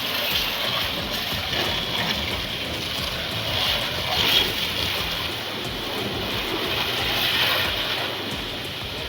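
Pressure washer spraying water: a steady hiss of spray.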